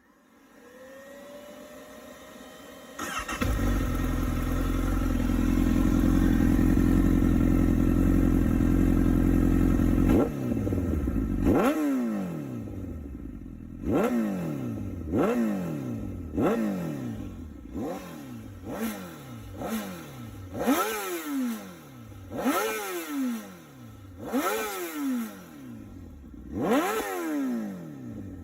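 Honda CBR1000RR (SC59) inline-four starting through an HRC silencer on a TSR mid-pipe: a rising whine, then the engine catches about three seconds in and runs at a steady fast idle. From about ten seconds on the throttle is blipped again and again, every second or two, each rev rising sharply and dropping back.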